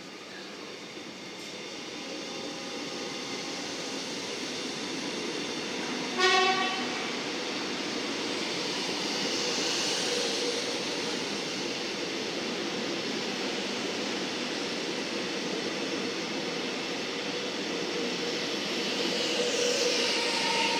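Melbourne Metro electric suburban train passing through the station, its running noise building steadily. One short horn blast sounds about six seconds in, the loudest moment.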